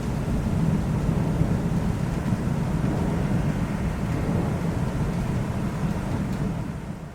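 Thunderstorm: a long, low rumble of thunder over steady rain hiss, fading near the end.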